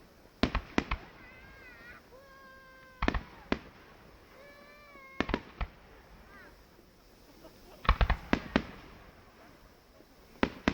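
Fireworks display: aerial shells bursting in clusters of two to four sharp bangs every couple of seconds, the loudest cluster about eight seconds in.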